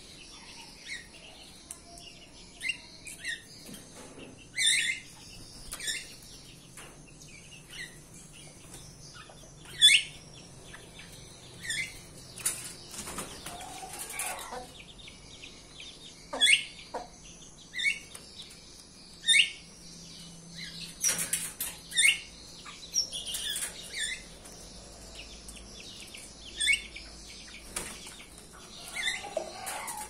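Caged songbirds calling and fluttering: short sharp chirps, many dropping in pitch, come every second or two, mixed with brief wing flutters.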